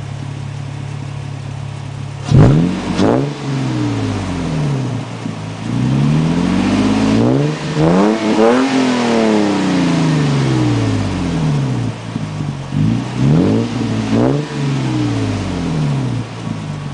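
2005 Toyota Tundra's engine heard through a custom 3-inch exhaust with a Magnaflow racing resonator, idling and then being revved. Two quick blips come early, then a longer series of revs rising and falling in the middle, then a few more blips near the end.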